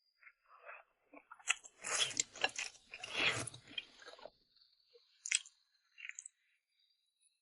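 Close-up eating sounds: chewing red-oil rice noodles, with a dense, loud stretch of wet mouth noise from about two to four seconds in and a few scattered clicks after it.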